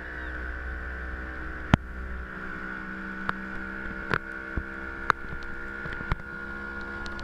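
A steady motor hum with several level tones and a deep rumble that drops away about two seconds in, broken by half a dozen sharp clicks.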